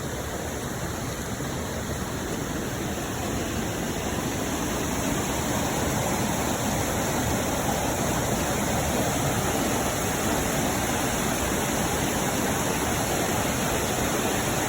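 Waterfall and creek water rushing steadily, growing a little louder about five seconds in.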